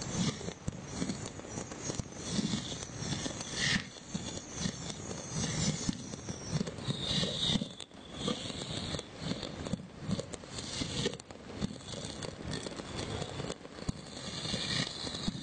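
Many fireworks and firecrackers going off at once across a city: a continuous, irregular crackle of pops and bangs.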